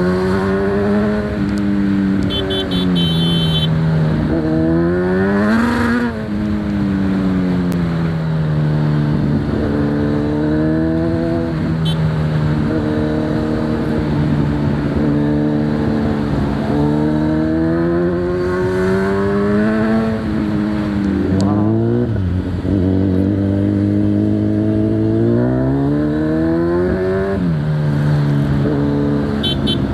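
Kawasaki Z900's 948 cc inline-four running through an Akrapovic full-system exhaust under way. The engine pitch climbs and falls again and again as it accelerates and changes gear, with sharp climbs about six seconds in and again a little past twenty seconds. The exhaust note is very loud.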